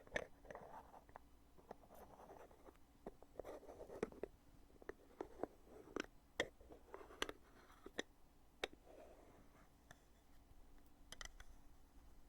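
Heavy lid of a foundation container being opened and closed over and over, close to the microphone: about ten quiet, sharp clicks at uneven intervals, with soft rubbing and scraping of the lid between them.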